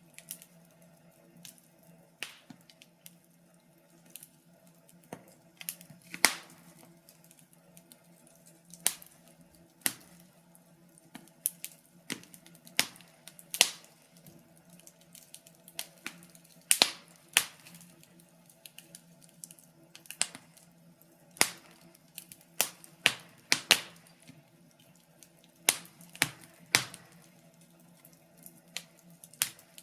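Wood fire crackling: irregular sharp pops and snaps, some in quick clusters of two or three, over a faint steady low hum.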